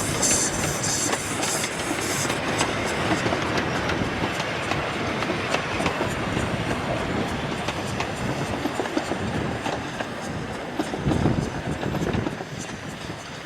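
A 16-inch gauge grand scale steam train running on its track, with a steady rush of noise and the wheels clicking over the rail joints. The sound swells briefly and deeper near the end.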